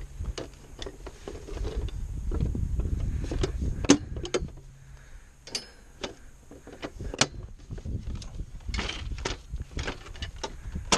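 Portable folding picnic bench being folded up: a run of clicks, knocks and rattles as its latch is released and its legs and frame fold, with a sharp click about four seconds in and another about seven seconds in.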